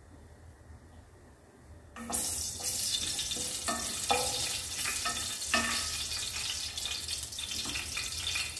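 Hot cooking oil sizzling in a pan as food fries. The sizzle starts suddenly about two seconds in and holds steady, with a few short clinks.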